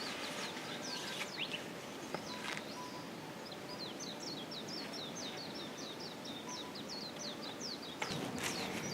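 Songbirds chirping outdoors: long runs of short, high, quick chirps, about four or five a second at their densest, over a steady outdoor background. A louder rush of noise sets in near the end.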